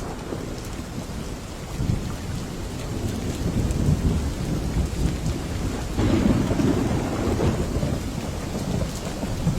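Steady rain with low rolling thunder; the rumble swells about two seconds in and again, loudest, about six seconds in.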